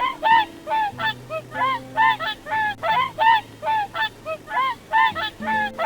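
Birds giving short honking calls in quick succession, about four a second, several overlapping, over faint steady low tones.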